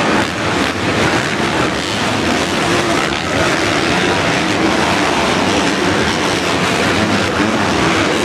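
A pack of motocross bikes racing, their engines blending into one loud, steady din.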